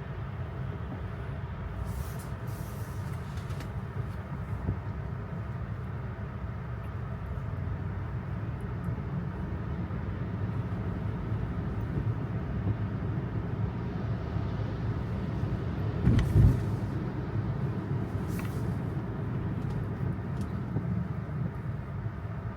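Road noise inside an electric Tesla's cabin on wet streets: a steady low rumble of the tyres, with a few brief hisses and a short louder thump about sixteen seconds in.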